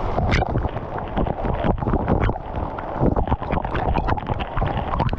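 Loud rushing of a waterfall close to the microphone, mixed with wind buffeting the microphone in irregular gusts.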